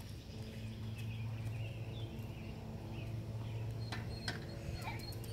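Birds chirping over a steady low hum, with two sharp clicks about four seconds in.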